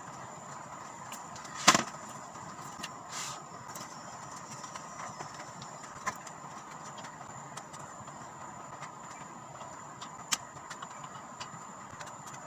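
A few scattered sharp knocks from bamboo being worked, the loudest about two seconds in, over a steady background hiss with a faint high tone.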